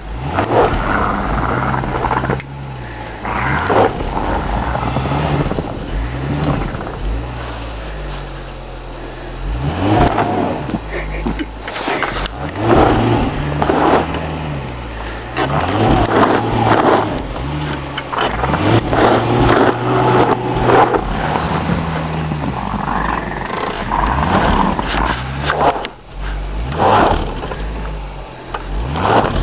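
Car engine revving up and falling back again and again while its wheels spin in deep snow: a car stuck in snow trying to drive out.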